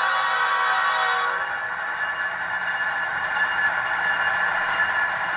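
Sound decoder in HO-scale Intermountain ET44AC model locomotives playing a GE GEVO diesel engine sound through their small onboard speakers: a steady engine drone with a whine and almost no bass. About a second in, the high hiss drops away.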